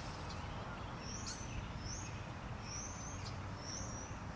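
Birds chirping: short, high whistled notes repeating about once or twice a second over a steady low background rumble.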